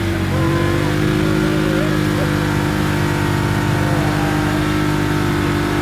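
A car engine running at a steady, unchanging pitch, with faint wavering tones above it.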